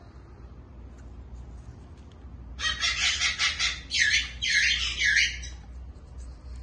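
A bird calling loudly from about two and a half seconds in: a quick run of harsh, chattering notes, then three squawks that each fall in pitch, stopping near the end.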